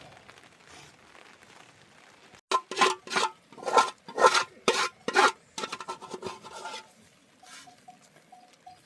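A run of about six loud rasping, scraping strokes, roughly two a second, followed by lighter scraping that dies away about seven seconds in.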